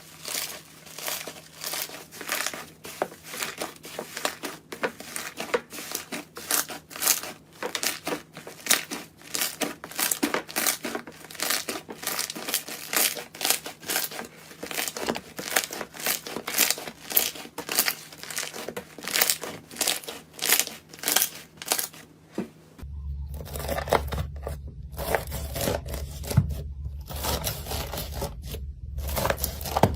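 Close-up crunching and crackling of a crunchy material being crushed, many small crackles a second. About 23 seconds in it changes abruptly to sparser crunches over a low steady hum.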